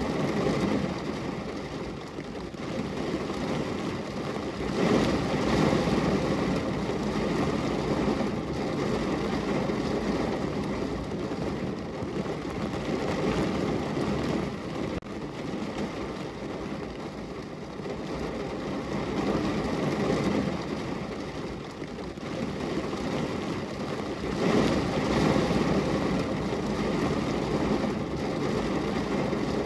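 Steady rain falling on a window, a dense even wash of drops, swelling louder twice: about five seconds in and again near the end.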